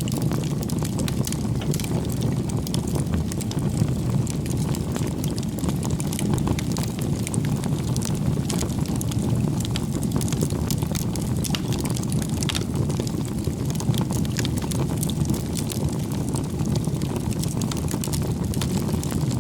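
Bonfire of firewood burning: a steady low rumble from the flames with frequent small crackles and pops of the wood.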